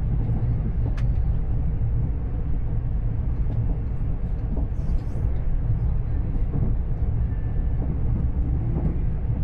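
Steady low rumble of a passenger train under way, heard from inside the carriage, with a single sharp click about a second in.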